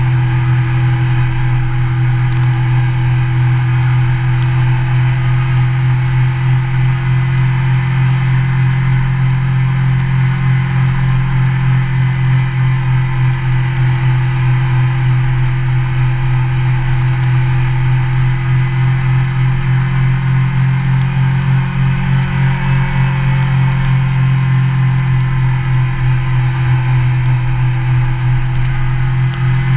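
Motorcycle engine running at a steady speed while riding, a loud, even drone that holds one pitch throughout.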